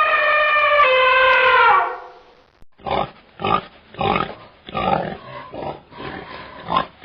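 A long, high, drawn-out animal call that drops in pitch partway and falls away about two seconds in. After a short gap comes a quick run of about eight short, rough grunts.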